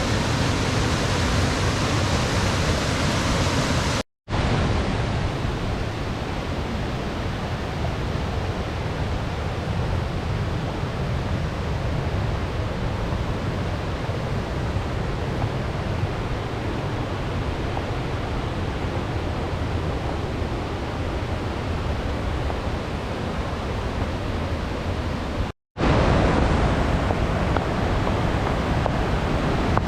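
A waterfall rushing in a loud, steady, even roar. It drops out for an instant twice, about four seconds in and again near the end.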